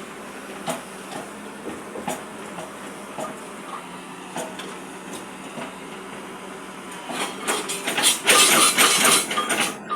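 Hyundai Robex 215 excavator's diesel engine running steadily, with occasional knocks, then its hydraulic breaker hammering concrete in a loud rapid run of blows for the last three seconds or so.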